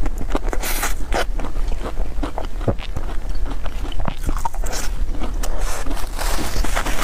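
Close-miked biting and chewing of cream puffs: many small irregular clicks and crunches, with a few brief crackly bursts.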